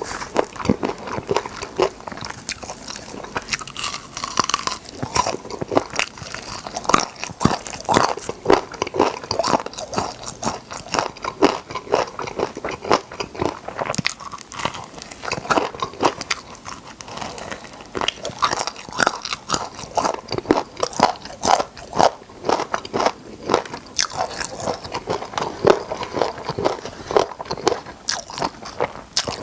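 A person biting and chewing crispy fried chicken drumsticks, close-miked: many irregular crisp crunches, often several a second, with chewing between them.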